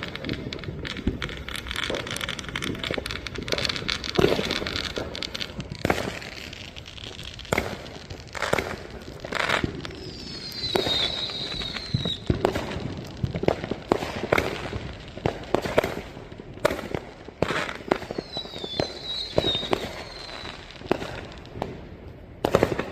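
Consumer fireworks going off around a neighborhood: a dense run of crackling in the first few seconds, then scattered bangs and pops. Twice a high whistle falls in pitch, about halfway through and again near the end.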